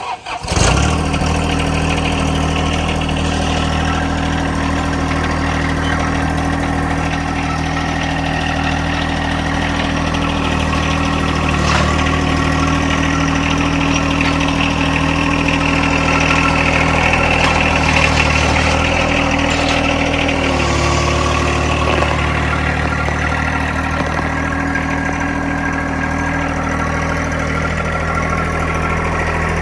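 Tractor engine running steadily at a constant speed, its note shifting slightly about twenty seconds in.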